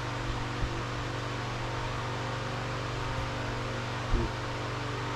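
Steady mechanical hum and hiss, with a couple of light knocks early on and a louder brief knock with a short wavering squeak about four seconds in.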